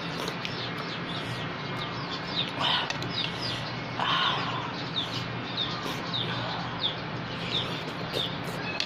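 Birds chirping: many short, high chirps repeat throughout, with two louder, harsher calls about a third and about halfway through, over a steady low hum.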